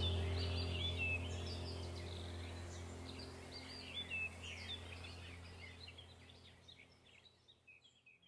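Small birds chirping and twittering in quick, short calls over a steady low hum, the whole mix fading out gradually toward the end.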